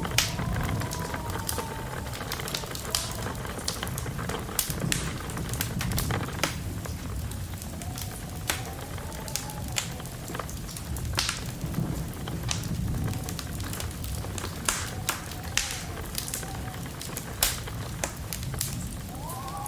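Wood fire crackling with frequent sharp pops over a low steady rumble, while wind whistles outside in rising and falling tones several times.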